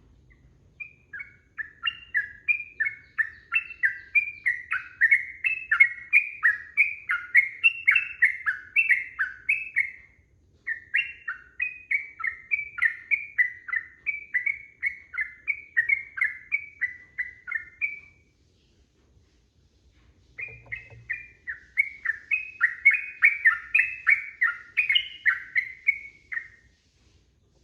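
Trucukan (yellow-vented bulbul) singing long, rapid runs of bubbly chirping notes, about two or three a second. There are three bouts, with short breaks of about half a second and of about two seconds between them.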